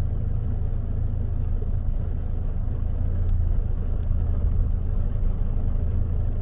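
Four-wheel drive's engine running: a steady low rumble.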